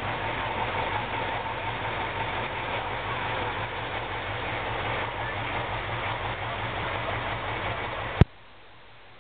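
KrAZ-255B truck's V8 diesel engine running steadily with a low, even pulse. About eight seconds in there is a sharp click, and the engine sound cuts off suddenly to a much quieter background.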